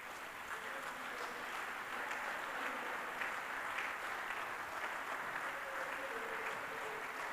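Congregation clapping and applauding steadily, heard fairly faintly.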